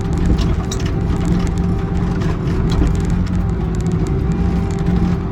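Excavator's diesel engine running at a steady pitch, with scattered light knocks and clicks over it.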